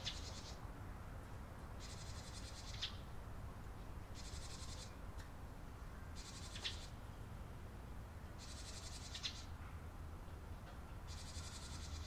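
Small birds calling: short buzzy, rapidly pulsed trills repeated about every two seconds, several ending in a sharp chirp, over a low steady rumble.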